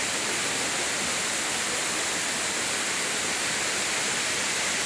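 Steady, even rush of falling water from a forest waterfall or cascade.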